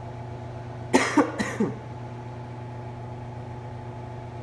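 A man coughing, two or three quick coughs about a second in, over a steady low hum.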